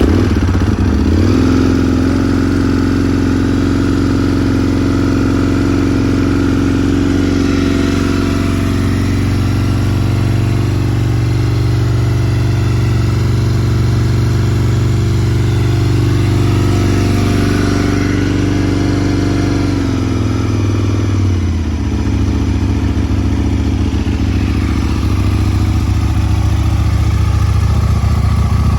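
A 2003 Aprilia Tuono Racing's 998 cc 60° V-twin fires up from cold and runs at a raised, steady idle. About twenty seconds in, the idle drops to a lower, steady beat.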